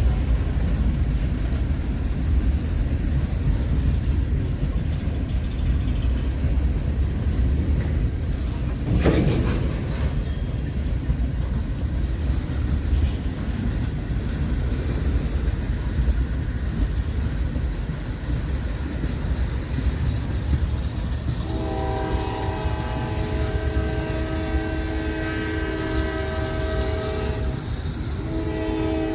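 Low, steady rumble of a train. About twenty seconds in, a locomotive's multi-chime air horn sounds a chord in a long blast, breaks off briefly near the end, then sounds again.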